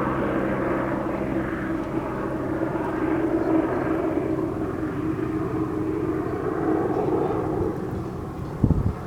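A steady engine drone, a low hum whose pitch drifts slowly, with a few low thumps near the end.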